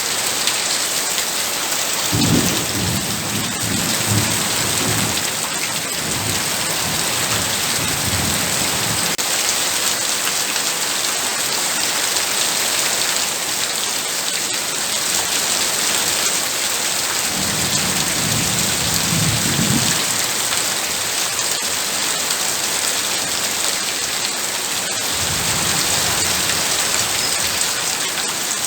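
Heavy, steady rain pouring down. Low rumbles of thunder roll in three times: a long one starting about two seconds in, a shorter one past the middle, and another near the end.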